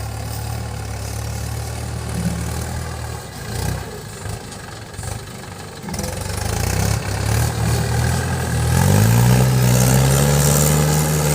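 Mahindra tractor's diesel engine running steadily, then revving up about nine seconds in and holding at higher revs.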